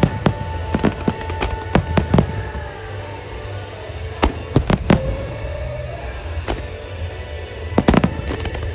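Aerial firework shells bursting in quick clusters of sharp cracks and bangs, several strikes close together, over pop music playing through outdoor loudspeakers.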